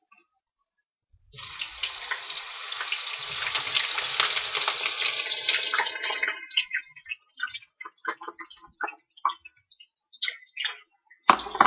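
Diced potatoes, onions and garlic dropped into a hot frying pan, starting about a second in with a loud sizzle full of fine crackles. After about five seconds it thins to scattered pops and crackles as the food settles in the pan.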